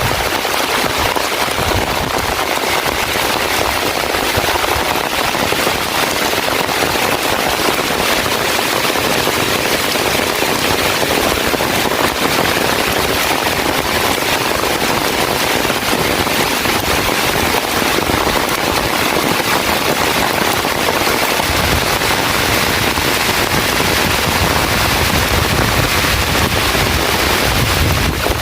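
Heavy rain pouring steadily, a dense crackle of drops pelting down. A low rumble joins about two-thirds of the way through.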